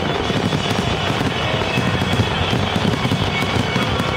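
Fireworks finale barrage: many aerial shells bursting at once in a dense, continuous run of booms and crackling, with no pause.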